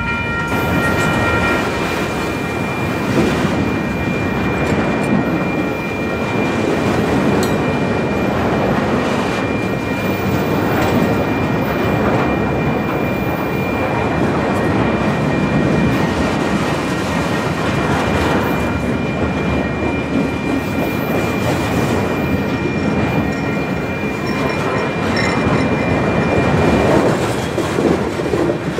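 A train rolling past at speed: a steady rumble of wheels on rail with clickety-clack over the joints, and a thin high steady squeal running through most of it.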